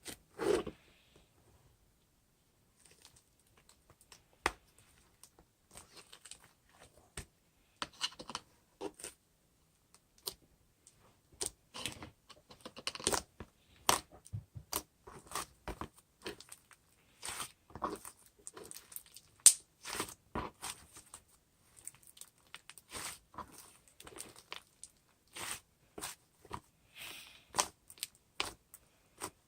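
Irregular small clicks, taps and crinkling handling noises, sparse at first and busier after several seconds, with one sharper click about two-thirds of the way in.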